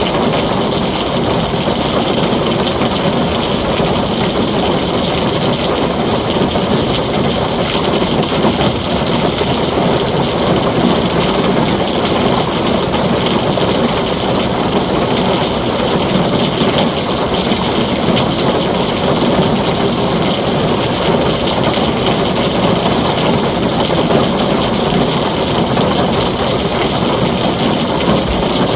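Heavy rain falling on a tin roof, a dense, steady hiss of drops that does not let up.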